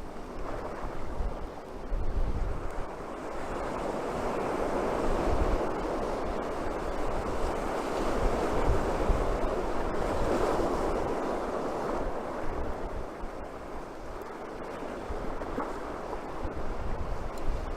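Atlantic surf breaking and washing on a beach, a steady wash that swells and eases, with wind gusting across the microphone in low rumbles.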